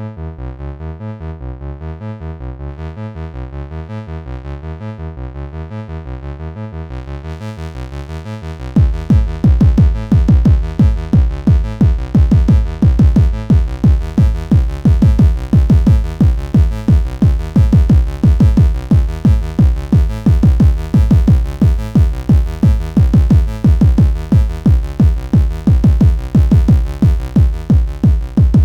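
Electronic synthesizer music: a repeating pulsing pattern whose tone brightens about seven seconds in, then turns much louder with a fast, dense beat and heavy bass from about nine seconds on.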